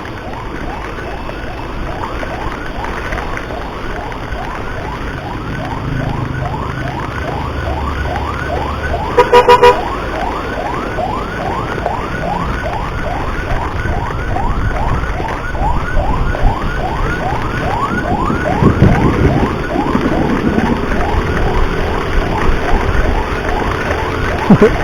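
Emergency siren on a rapid yelp: a sharply rising wail repeating about three times a second over road and engine noise. A vehicle horn gives a few quick loud blasts about nine seconds in.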